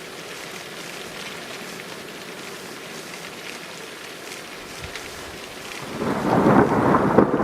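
Steady rain hissing, then a loud crack of thunder breaks in about six seconds in and is still rolling at the end.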